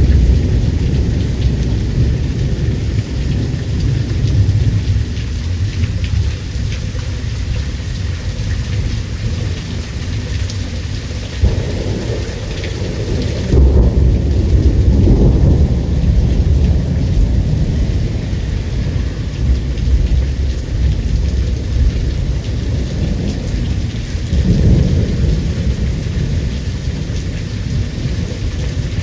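Thunderstorm: steady rain hissing down under long rolls of rumbling thunder, which swell about halfway through and again near the end.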